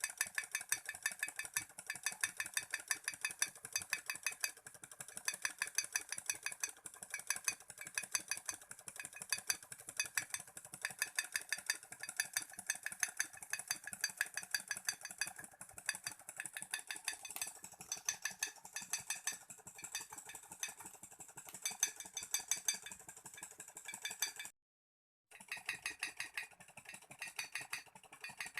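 Small Stirling engine running, its moving parts making a fast, steady clicking rattle, with a brief drop to silence near the end.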